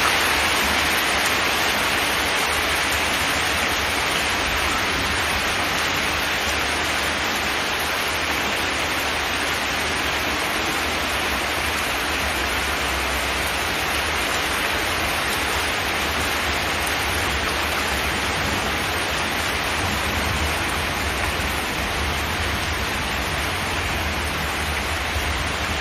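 Steady rain falling on a zinc metal roof, an even hiss.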